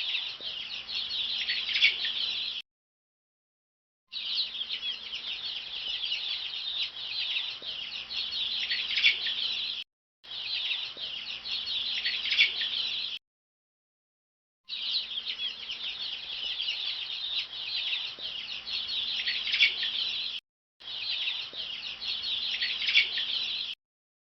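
A crowd of chicks peeping all at once, a dense high-pitched chatter. It cuts off abruptly several times, with a second or so of silence between the stretches.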